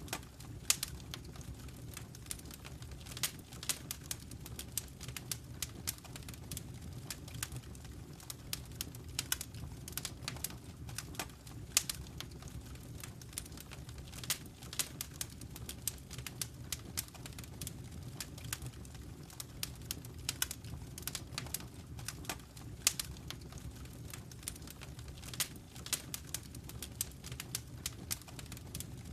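Wood fire burning in a fireplace: a steady low rumble with irregular sharp crackles and pops, several a second, a few of them louder.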